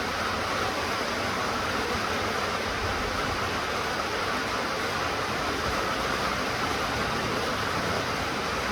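Steady rainfall, an even hiss without distinct drops or changes.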